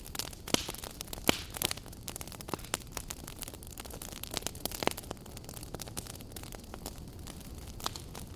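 Wood fire burning in a fireplace, crackling with irregular sharp pops over a steady low rush; a few louder pops stand out, one about a second in and another near the middle.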